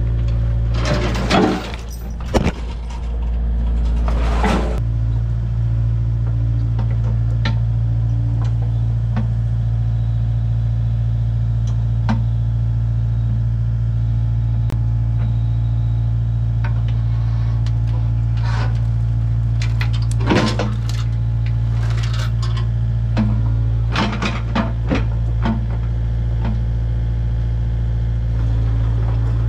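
Engine running at a steady idle, with scattered metal clanks and knocks from a few seconds in and again past the middle, mostly around 20 to 25 seconds.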